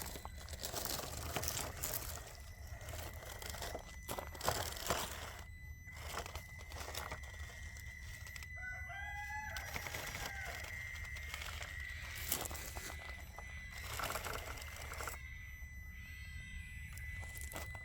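Cats fighting: a drawn-out yowl that rises and falls about halfway through, with a fainter one near the end.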